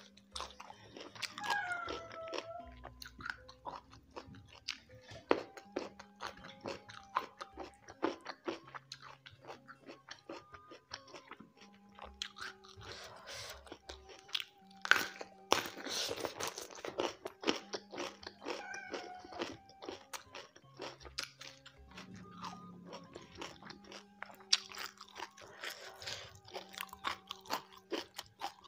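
Close-up chewing with many small crisp crunches of raw young jengkol beans eaten with rice, over soft background music with held notes.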